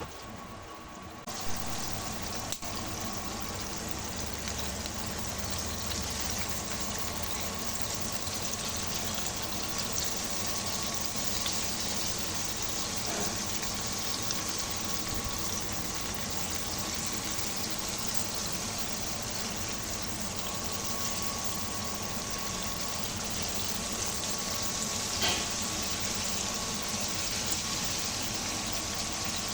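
Flour-coated chicken pieces deep-frying in hot oil: a steady, dense sizzle that comes up sharply about a second in, with a couple of light knocks.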